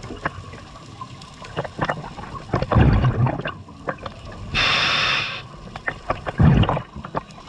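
Scuba diver breathing through a regulator underwater: two rumbling bursts of exhaled bubbles, about three seconds in and again near the end, with the hiss of one inhalation between them, and scattered small clicks throughout.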